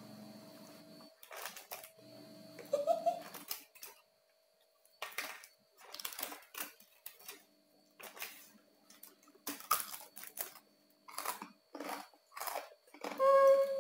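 Close-up crunching and chewing of crispy Bangka-style roast pork (saucu bapang), a string of short, irregular crisp crunches with brief quiet gaps between bites.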